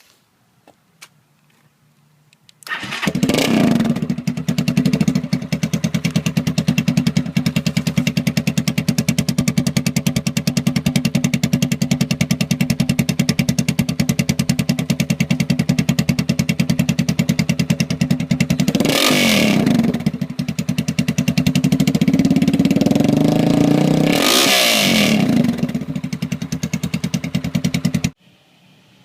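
A Lifan LF200 GY-5's 200cc single-cylinder engine starts about three seconds in and idles with fast, even exhaust pulses. It is revved twice near the end, a quick blip and then a longer rise and fall, and then switched off suddenly.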